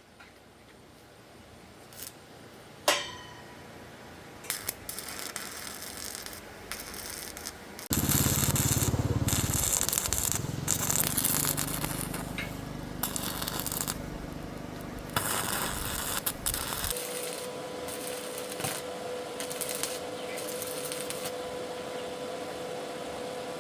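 Metalworking noise: a single metal clank that rings briefly, then a long stretch of harsh scraping and crackling over a low machine hum. Near the end this gives way to a steady whine.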